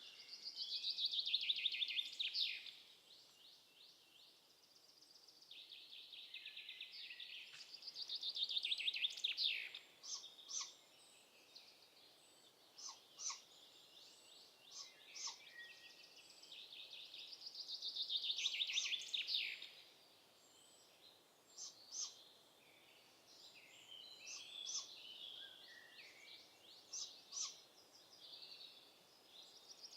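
A small songbird singing in the woods: a run of rapid notes falling in pitch and ending in a flourish, each phrase two to three seconds long and repeated three times, several seconds apart. Short scattered chirps from other birds sound between the phrases.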